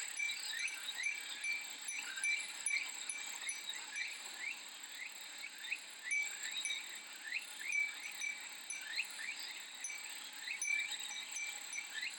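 Summer cicadas calling in a steady high-pitched drone, with short chirping calls repeating about one to two times a second, mixed with the light ringing of a Japanese furin wind chime.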